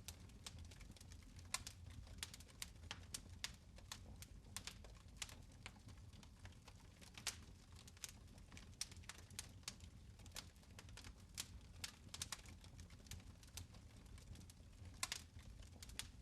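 Fire in a fireplace crackling faintly: irregular sharp pops and snaps, several a second, over a low steady rumble of the flames.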